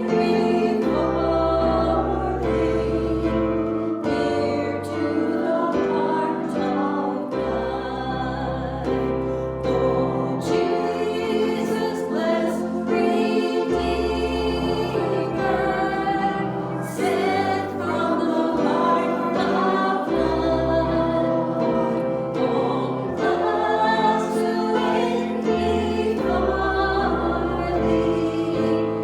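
A group of voices singing a hymn with instrumental accompaniment, low bass notes held for a second or two at a time beneath the voices.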